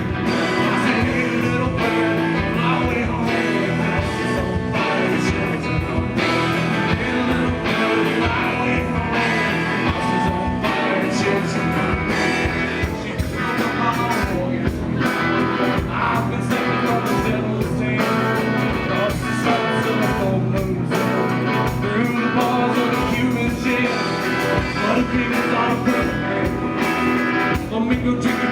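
Rock band playing live: guitars and drums, with a singer.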